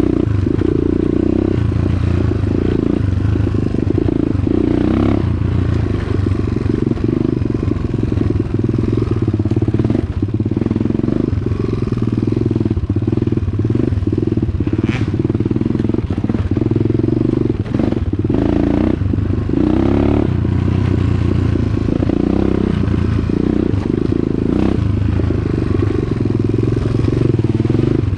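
Dirt bike engine running as the bike is ridden along a trail, the engine note rising and falling with the throttle, with scattered clatter and knocks.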